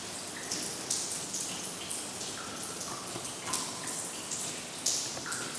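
Rainwater dripping from roof leaks: irregular drops landing with short pitched plinks over a steady hiss of rain.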